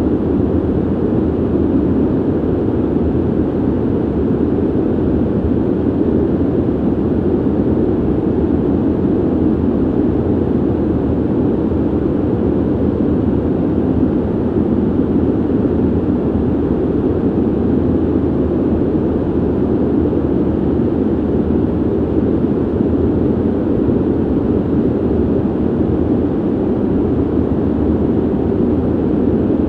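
Steady, low ventilation noise: an even whoosh of air from a ventilation system, deep and dull with little hiss, unchanging throughout.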